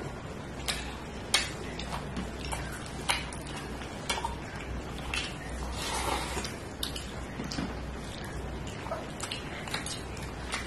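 Eating sounds: scattered sharp wet clicks and smacks of chewing a meal of rice and fish curry, with a denser burst about six seconds in, over a low steady hum.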